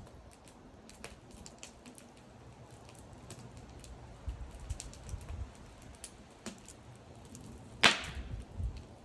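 Wood burning in a bonfire, crackling with scattered small sharp pops and one loud snap about eight seconds in.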